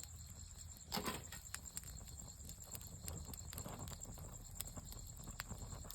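Campfire wood crackling, with scattered sharp pops and snaps and a louder burst of crackling about a second in.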